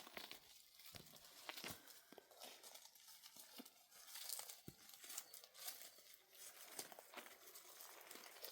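Faint rustling and crackling, with many small scattered clicks and snaps.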